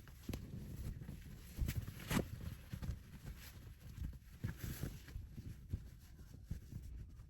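Irregular light knocks, taps and rustles of objects being handled and set down, over a low rumble, with the loudest knocks about two seconds in and again near five seconds.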